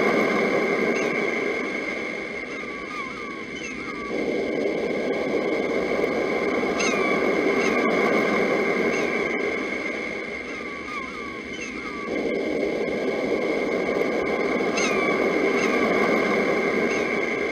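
Sea surf rushing in and easing off in slow swells, with short bird chirps recurring over a steady high ringing tone. The surf jumps back up abruptly about four seconds in and again near twelve seconds, so it sounds like a repeating loop.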